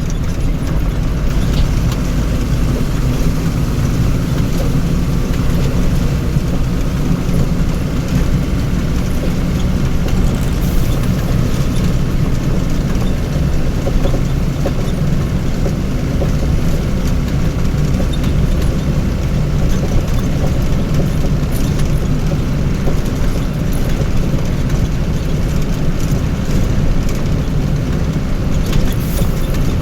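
Motor vehicle engine running with a steady low rumble, unchanging throughout.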